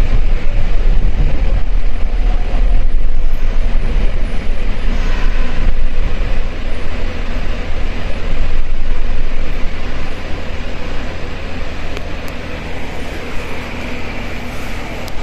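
Nagoya subway 2000 series train running, heard from inside the car: a steady low rumble of wheels and motors, easing off and getting quieter over the last few seconds as the train slows for the Nagoyako terminus.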